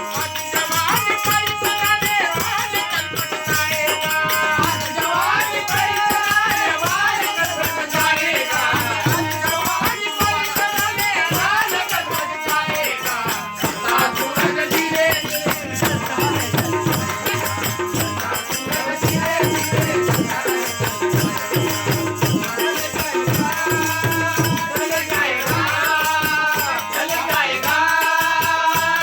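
Live Indian folk music: a melody line stepping up and down over hand drums and a shaken rattle keeping a steady rhythm.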